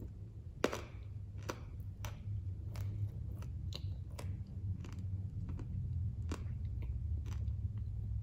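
A person chewing dry, crunchy blocks of edible clay up close, with irregular sharp crunches as the pieces break between the teeth, the loudest about half a second in, over a steady low hum.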